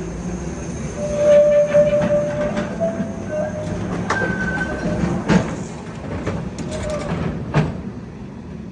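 Vintage electric street tram rolling past with a low rumble. It gives held, high-pitched steel-wheel squeals in the first half and a few sharp knocks from the wheels over the rails.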